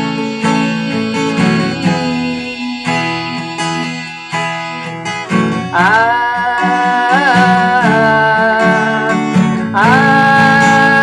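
Acoustic guitar strumming open chords with a capo on the 2nd fret. From about halfway a held, wordless sung line comes in over the strumming.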